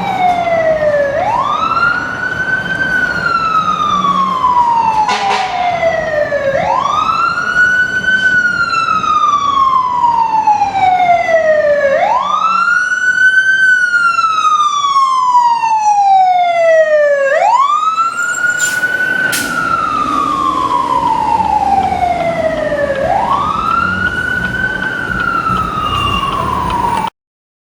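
American LaFrance fire engine's siren wailing on a code 3 run, over the truck's low engine rumble. Each cycle rises quickly and falls slowly, repeating about every five and a half seconds. The sound cuts off near the end.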